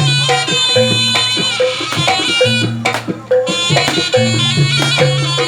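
Javanese jaranan/barongan folk music played live: kendang hand drums and gamelan percussion strike a steady repeating rhythm under a high, held reed melody.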